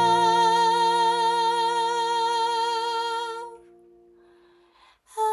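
A female singer holds a long note with vibrato over an acoustic guitar chord left ringing. Both die away about three and a half seconds in, and after a short pause the singing comes back just at the end.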